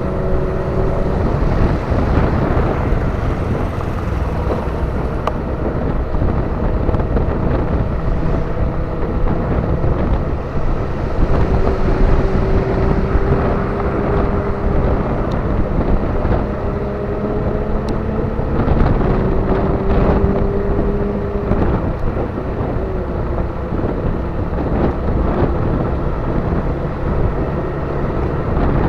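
Motorcycle engine running under way, with wind buffeting the microphone; the engine note rises and falls a little with speed.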